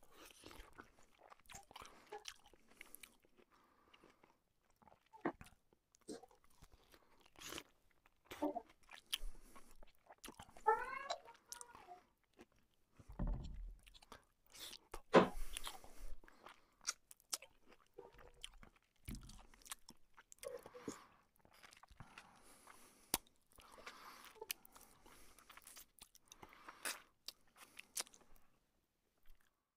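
A person eating luchi with chicken curry by hand: irregular chewing, biting and lip-smacking with short clicks and quiet gaps between mouthfuls.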